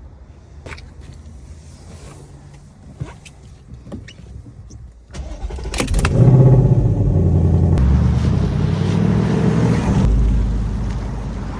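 Ford Mustang GT's 5.0-litre V8 starting about five seconds in, flaring up loudly and then running at a fast idle that eases down near the end. Before it there are a few light clicks and knocks.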